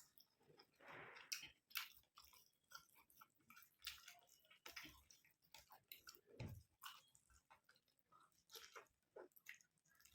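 Close-miked chewing of curry and rice: faint, irregular wet mouth clicks and smacks with short pauses between them.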